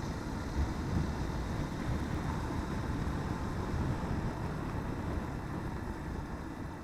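Motorcycle running down the road with its road noise, a steady low rumble that eases slightly near the end.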